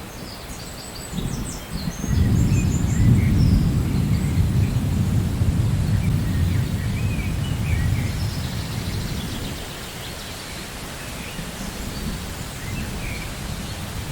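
Rolling thunder over steady rain: a deep rumble swells about two seconds in and slowly fades, while the hiss of rain continues. Small birds chirp briefly now and then.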